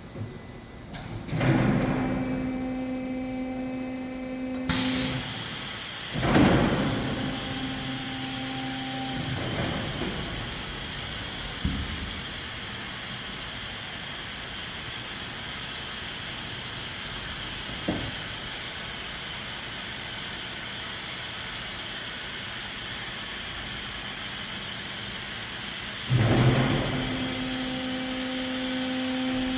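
A small electric motor, the drive of a refrigerator-moving device, runs with a steady hum in three runs of about three seconds each: about a second in, around six seconds in, and near the end, each starting with a knock. A steady hiss sets in about five seconds in and carries on underneath.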